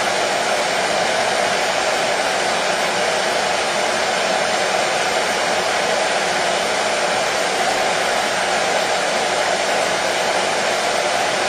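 Hair dryer blowing steadily, a continuous even rushing hum with no change in speed or pitch.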